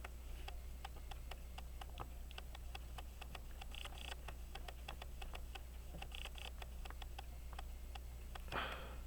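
Faint, steady ticking of a clockwork escapement, several ticks a second. Three brief scratchy handling sounds from small tools come about four, six and eight and a half seconds in, over a low steady hum.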